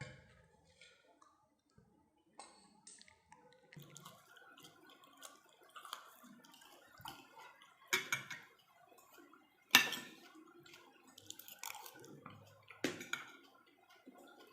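Close-up eating sounds: wet chewing and mouth clicks while eating pork, with a few louder sharp clicks, the loudest about ten seconds in.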